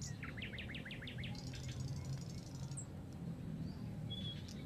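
Wild birds calling: a quick run of about ten sharp chirps in the first second, then a high buzzing trill and a couple of short whistles, over a steady low hum.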